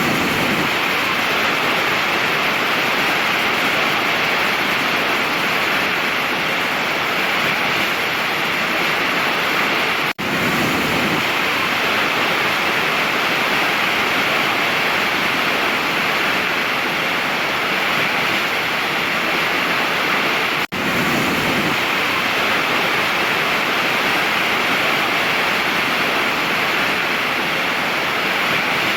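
Waterfall: a steady, dense rush of falling water. It cuts out for an instant twice, about ten and about twenty seconds in.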